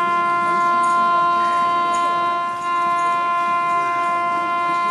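Indian Railways electric locomotive's horn sounding one long, steady blast as an express runs through the station, dipping briefly about two and a half seconds in and then holding on.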